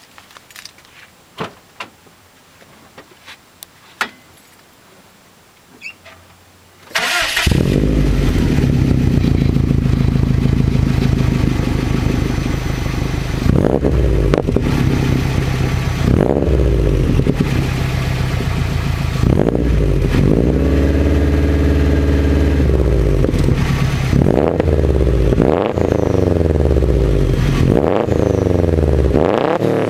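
2005 Subaru WRX STi's turbocharged 2.5-litre flat-four, through a catless turbo-back Invidia exhaust (bellmouth downpipe and G200 cat-back), starting about seven seconds in after a few faint clicks. It then runs and is revved again and again, the pitch rising and falling, with the revs held steady for a few seconds around the middle.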